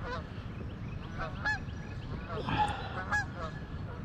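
Geese honking repeatedly, a run of short, hooked calls, over a low background rumble.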